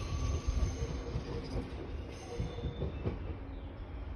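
Gakunan Railway electric train pulling away down the line, a steady low rumble with a few thin high whining tones that fade out over the first couple of seconds as it recedes.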